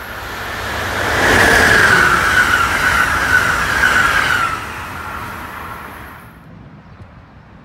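Amtrak electric passenger train passing through a station at speed: a rush of wheel and air noise that builds over about a second and holds for about three seconds, with a steady whine that falls slightly in pitch as the train goes by, then fades away quickly.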